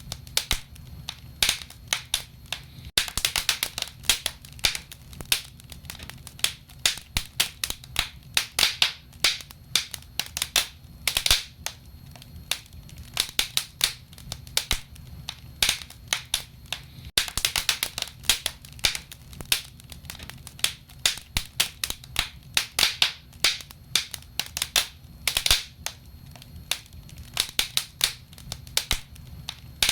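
Fireplace fire crackling: irregular sharp pops and snaps, sometimes in quick clusters, over a low steady rumble.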